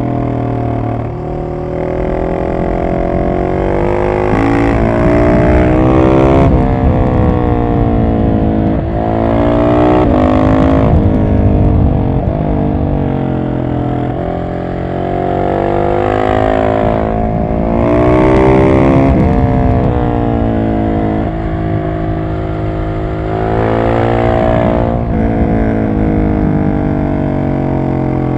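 Husqvarna 701 Supermoto's single-cylinder engine through an Arrow exhaust with the catalyst removed, pulling hard and shutting off again and again: the pitch climbs with each burst of throttle and drops back on the overrun about five times.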